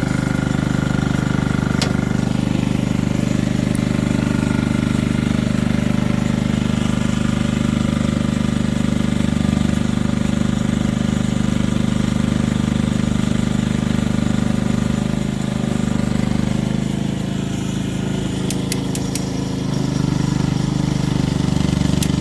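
A steady, loud low drone of a running engine, easing slightly for a few seconds before rising again. A few light clicks come near the end as bolts are torqued with a torque wrench.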